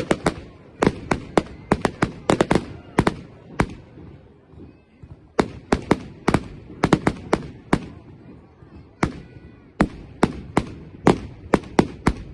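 Fireworks going off: many sharp bangs in rapid, irregular clusters, with a pause of about a second midway before the bangs resume.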